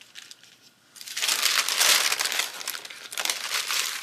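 Sticker sheets crinkling as they are handled. The sound comes in two spells: a longer one starting about a second in and a shorter one near the end.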